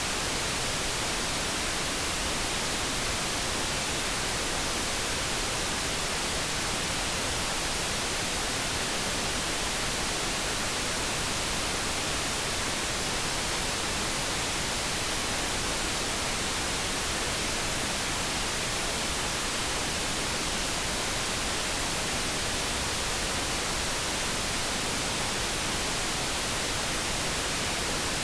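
Generated light brown noise: a steady, even hiss with no tones and no changes.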